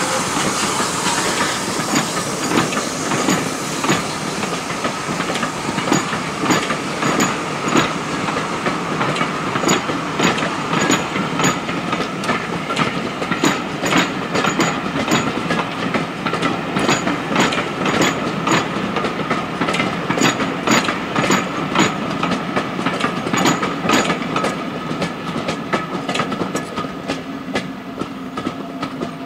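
Coaches of a steam-hauled passenger train rolling past, their wheels clicking over rail joints in quick irregular clusters over a steady rumble. A faint steam hiss fades in the first couple of seconds, and the sound eases as the last coach goes by near the end.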